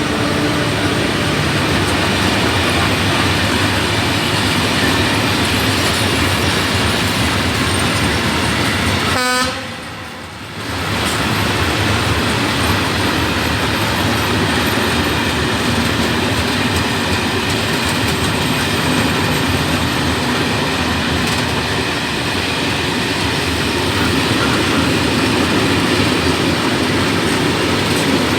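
Freight train of open coal wagons rolling past, a steady noise of wheels on rail. It drops out briefly about ten seconds in.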